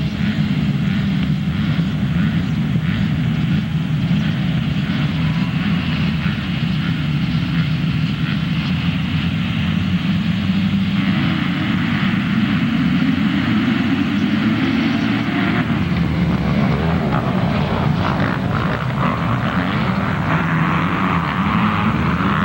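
Motocross motorcycle engines running on the track as a continuous drone of several bikes, with one engine's pitch climbing in the second half as it accelerates.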